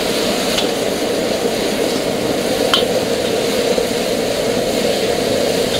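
Dried chilies and peppercorns sizzling hard in hot oil in a wok over a gas flame, a steady frying hiss, with a metal ladle clinking against the wok a couple of times.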